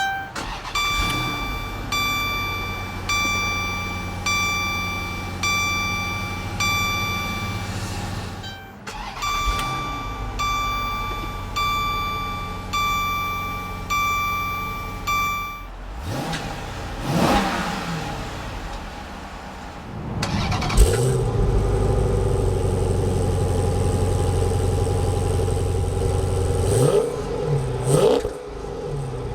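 Cabin warning chime dinging about once a second, two runs of several chimes. Then the 6.4-litre 392 HEMI V8 of a Chrysler 300C SRT-8 is started with the push button, catches and idles steadily, with two short blips of the throttle near the end.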